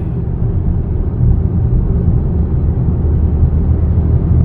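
Steady low rumble of road and tyre noise with the engine, heard inside the cabin of a sound-deadened Audi A6 (C8) cruising at highway speed.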